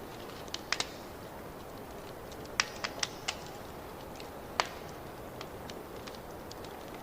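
Wood fire crackling in a fireplace: a steady low rumble with irregular sharp pops and snaps, the loudest cluster about two and a half seconds in and a single sharp pop past the middle.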